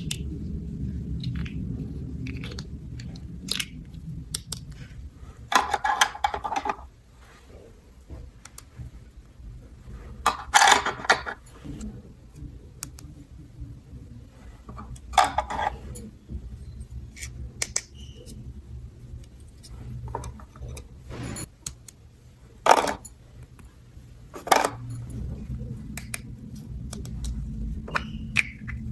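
Small plastic toy pieces being handled and set down: scattered clicks and clinks with a few short rattling bursts, the loudest about ten to eleven seconds in.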